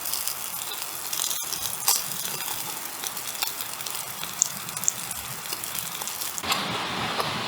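Wood campfire crackling and hissing, with scattered sharp pops. About six and a half seconds in, a steady rushing noise takes over.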